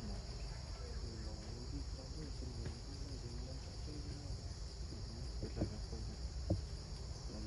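Steady, high insect drone from the jungle, holding an even pitch throughout. Two short sharp knocks land near the end and are the loudest sounds.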